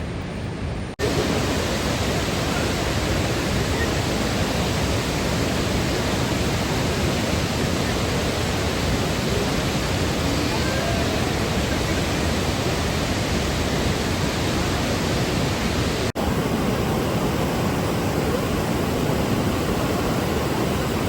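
Steady, loud rush of Athirappilly Falls, a waterfall of about 24 m on the Chalakudy River, in heavy rainy-season flow. The sound breaks off for a moment twice, at cuts about a second in and about sixteen seconds in.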